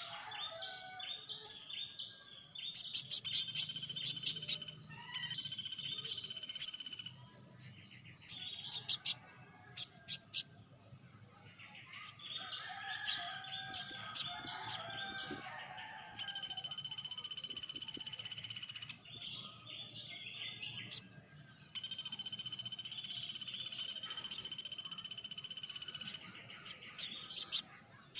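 Outdoor insect chorus, crickets keeping up a steady high-pitched drone, with bird chirps and twittering over it and a few short, sharp clicks that are the loudest sounds.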